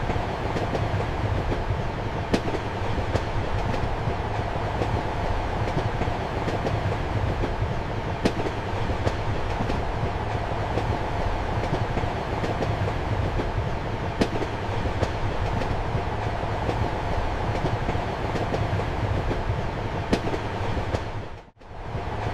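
Passenger train running, heard from inside a compartment: a steady rumble and rolling noise, with a sharp clack from the rail joints about every six seconds. The sound drops out for a moment near the end.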